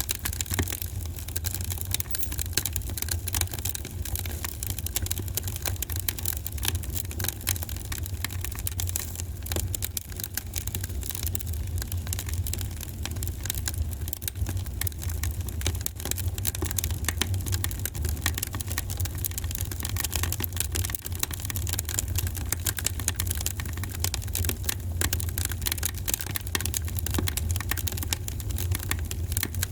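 Wood fire burning in a fireplace, with dense, irregular crackles and pops over a steady low rumble.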